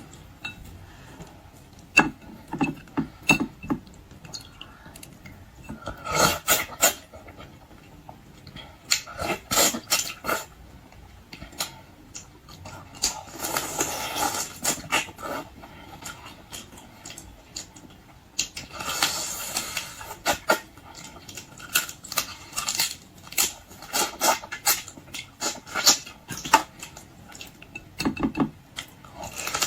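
Close-miked eating of raw-marinated crab: irregular cracks, clicks and wet mouth smacks as shell is bitten and sucked. Two longer noisy stretches come about 13 and 19 seconds in.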